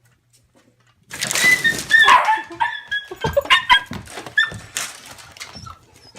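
A dog barking and yelping in a quick run of short cries, starting about a second in and tailing off near the end.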